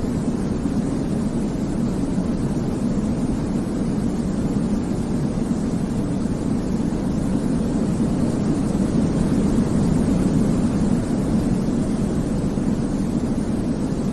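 Steady, deep white noise for baby sleep, a low rushing rumble with only a faint hiss above it. It swells slightly about ten seconds in.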